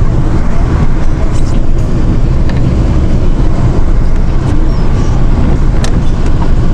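A vehicle driving, most likely the hunters' truck: a steady, loud low rumble of engine and road noise, with a few light clicks.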